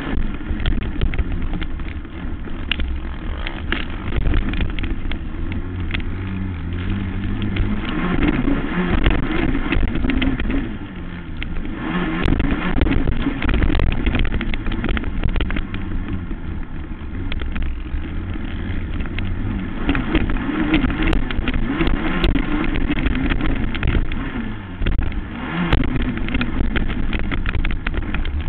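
Racing quad's engine revving hard, its pitch climbing and dropping again and again, with a constant crackle of short knocks and rattles.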